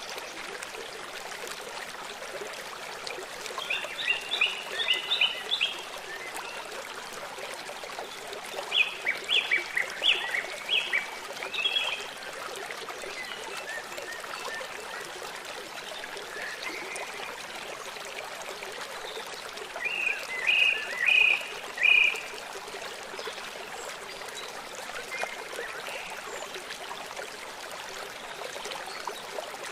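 Running stream water rushing steadily, with a bird calling three times in short runs of four to six quick, high repeated notes.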